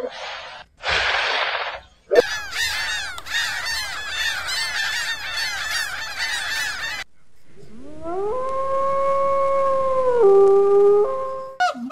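Two short, breathy hippo grunts, then a flock of gulls and terns calling together in a dense, clamouring chorus, then a wolf giving one long howl that rises, holds, and steps down in pitch near the end.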